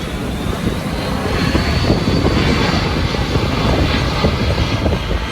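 Aircraft flying past, a dense engine rumble that swells a little about a second and a half in, with a faint high whine over it.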